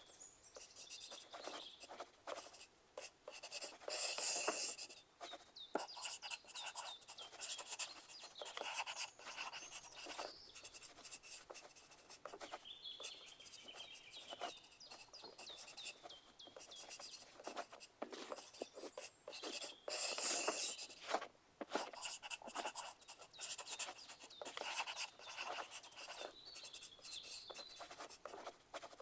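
Pencil writing on paper: a steady run of irregular scratching strokes and light taps, with louder spells of fast writing about four seconds in and again near twenty seconds.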